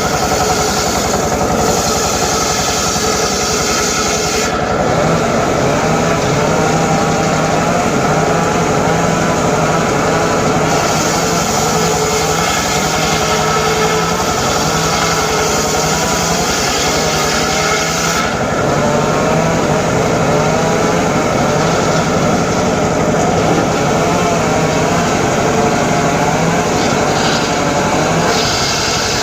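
Home-built circular saw running steadily while its blade cuts through teak, with a wavering whine from the blade under load. The cutting noise shifts between brighter and duller stretches every several seconds as the cuts go on.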